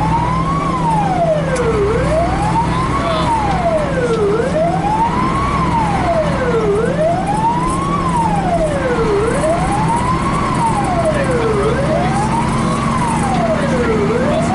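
Fire engine siren in wail mode, rising and falling about once every two and a half seconds. It is heard from inside the truck's cab over the steady drone of the engine and road noise.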